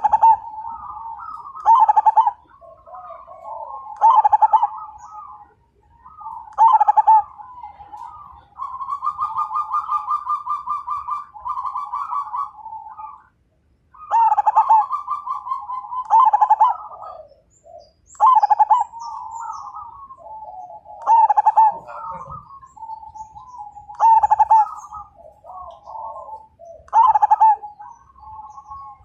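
Zebra doves (perkutut) cooing their manggung song: short phrases of a few bubbling notes, repeated about every two seconds, with a quick rolling trill about nine seconds in.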